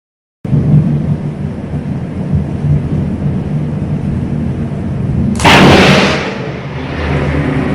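Thunderstorm with a continuous low rumble, then a sudden loud crack of close thunder about five seconds in that rumbles away over a second or so.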